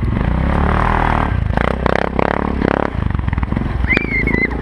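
ATV engine running and revving in several surges, with a high wavering whistle-like tone near the end.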